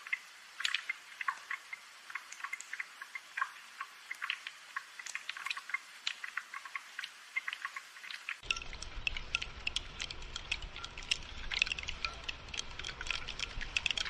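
Rain falling in close, irregular drops, a dense pattering and dripping of many small, sharp ticks. About eight seconds in, a low rumble joins abruptly and the drops grow thicker.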